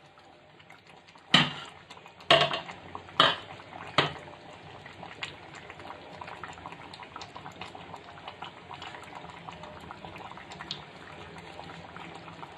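Four sharp clanks of metal against a cooking pot, about a second apart, followed by a pot of chicken curry simmering with a steady bubbling and light crackle.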